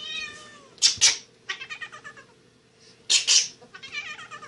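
Cat meowing repeatedly: a falling call at first, then runs of short calls, broken by two pairs of short, loud, harsh cries about a second in and about three seconds in.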